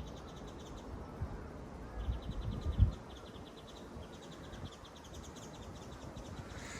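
An insect trilling outdoors, a high, evenly pulsed call of about ten pulses a second that comes and goes. A few low thumps sound near the middle.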